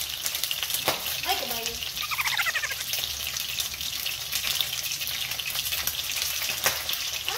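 Chicken wings frying in hot oil in a pan under a mesh splatter screen: a steady crackling sizzle full of small spitting pops, with a couple of light clicks.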